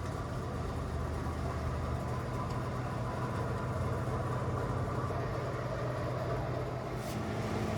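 A steady low mechanical hum over a broad background hiss.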